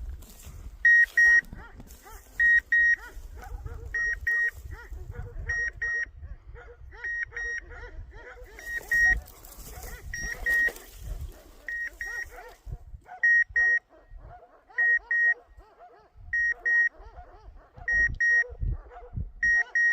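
Hunting dog's beeper collar sounding short paired beeps, one pair about every one and a half seconds, with dogs barking between the beeps.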